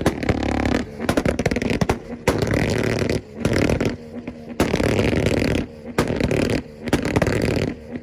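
Tuned car engine held on a two-step launch-control rev limiter, the exhaust crackling and popping in rapid stuttering bursts, with several short breaks as the throttle is let off and reapplied.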